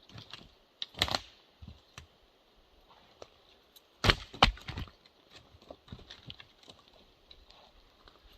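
Douglas fir firewood rounds knocking against each other as they are handled and loaded. There is one sharp knock about a second in, two loud knocks close together about four seconds in, and lighter knocks scattered between.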